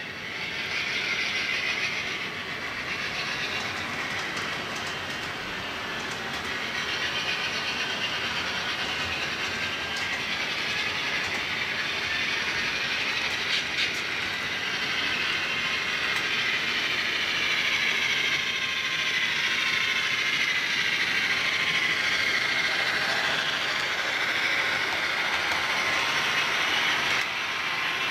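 HO scale model train running on freshly laid flex track, its wheels rolling and clicking over the rail joints with a steady rumble and the whir of the locomotive's small motor.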